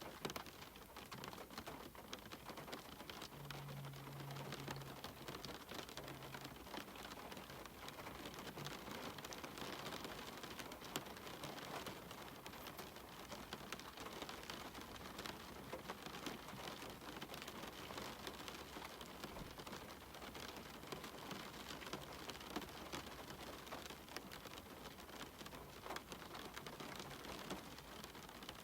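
Steady rain falling, with dense patter of small drops ticking on a surface.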